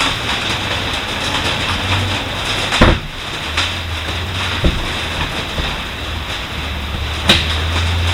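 Steady rain pattering on a bus roof, with three heavier drops or drips knocking loudly on it about three, four and a half, and seven seconds in.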